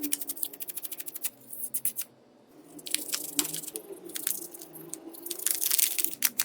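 A quick run of small sharp clicks, then after a short pause a stretch of irregular crackling and scraping: close-up hand and tool work on a smartphone during repair.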